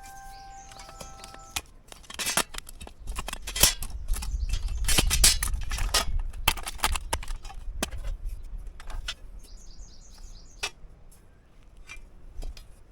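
A run of clinks, knocks and rustles of things being handled, busiest a few seconds in, with a bird chirping briefly near the start and again about ten seconds in.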